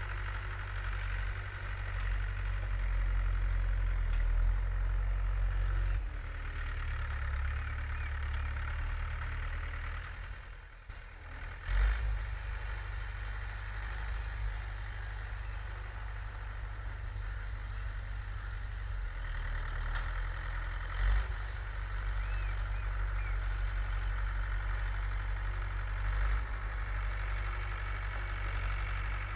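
Tractor engine running steadily with a low rumble, dipping briefly and then surging back about eleven seconds in.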